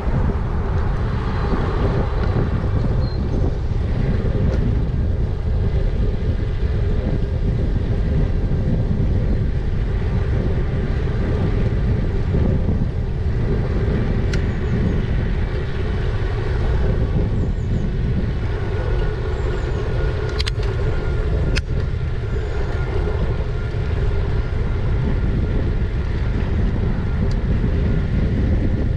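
Riding-along sound of an e-bike: wind rushing over the microphone and road noise, with a steady hum underneath. Two sharp clicks come about two-thirds of the way through.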